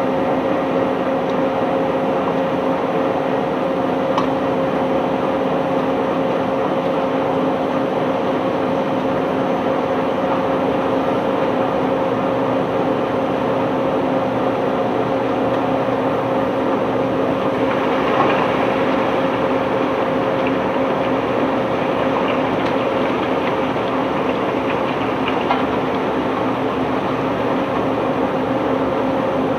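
Unloading machinery running steadily with a constant hum and faint knocks, with one louder knock about 18 seconds in.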